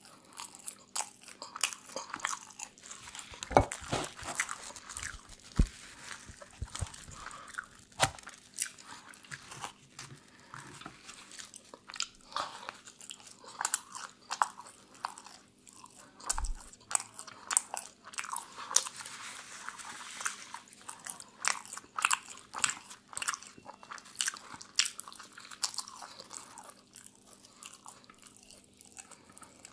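Close-miked chewing and biting of crusty pizza, with a dense run of crisp crunches and wet mouth clicks.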